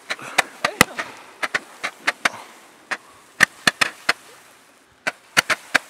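Multi-shot firework cake firing a rapid, irregular string of sharp pops as its comets launch, with a faint hiss between shots. The pops thin out over the last couple of seconds.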